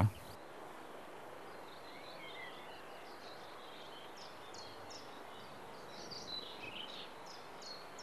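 Faint open-country ambience with a bird singing: scattered short high chirps and trills, busiest near the end, over a soft steady hiss.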